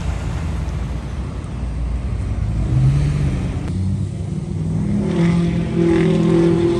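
Diesel truck engine running, a steady low rumble whose pitch rises about three seconds in and again near the end, as if revved.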